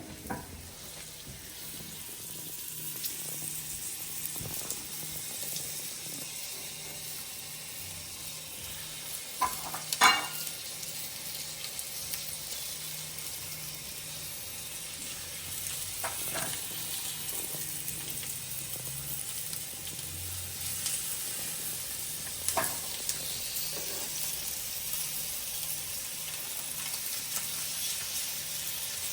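Flour-dusted chicken thighs searing skin side down in hot olive oil in a cast-iron skillet: a steady frying sizzle that builds over the first few seconds and then holds. A few sharp clinks cut through it, the loudest about a third of the way in.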